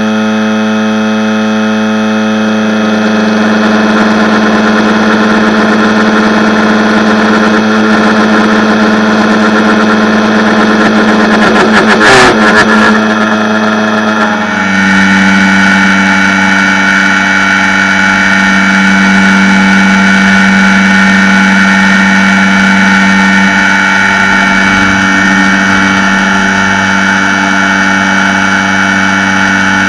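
Robot arm's milling spindle cutting marble, running with a steady whine. A brief loud burst comes just before halfway, and then the tone shifts to a new steady pitch.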